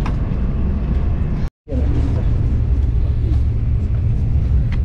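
Steady low rumble inside the cabin of a Haramain high-speed train running at speed. The sound cuts out for a moment about one and a half seconds in.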